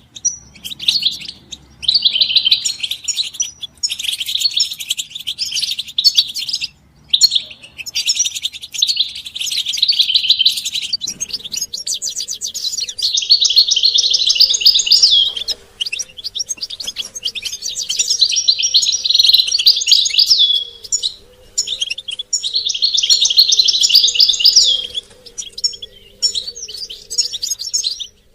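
European goldfinches twittering and singing together in a dense, rapid chatter with short pauses every few seconds: the group twittering and mating calls used to stir male goldfinches into song.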